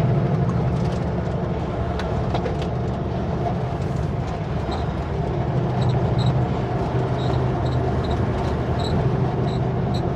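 Kenworth W900L semi truck's diesel engine droning steadily under road noise, heard from inside the cab while cruising on the highway.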